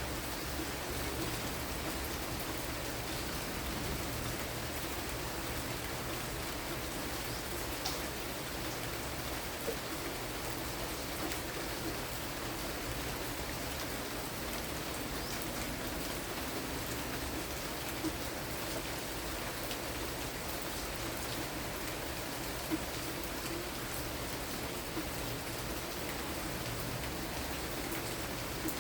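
Light rain falling steadily, a continuous even hiss of rain on surfaces with a few single sharp drip taps now and then.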